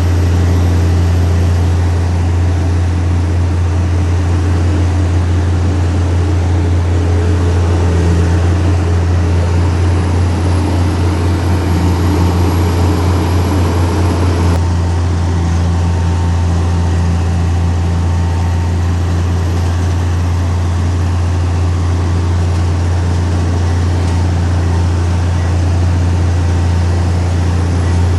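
Heavy diesel engine of earthmoving machinery running steadily with a deep, constant drone; the sound shifts slightly about halfway through.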